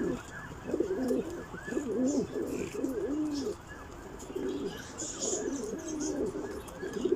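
Several domestic pigeons cooing at once, their repeated coos rising and falling and overlapping one another.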